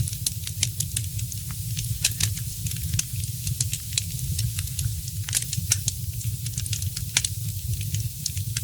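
Wood fire crackling, with many sharp, irregular pops over a steady low rumble of burning.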